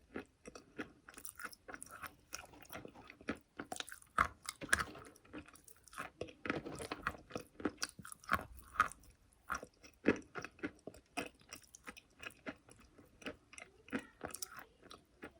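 A person biting and chewing chalk: a dense run of sharp, irregular crunches, several a second, with a few louder bites scattered through.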